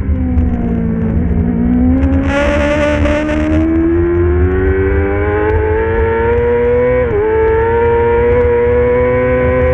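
Middleweight superbike racing motorcycle engine. It drops in pitch off the throttle, then winds up steadily under hard acceleration, with a quick upshift about seven seconds in and a steady low rumble underneath.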